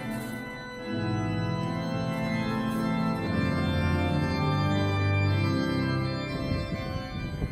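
Organ playing slow, sustained chords that change every two to three seconds.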